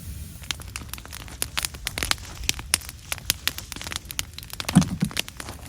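Wood fire crackling, with many sharp pops coming in quick irregular succession and a duller knock near the end.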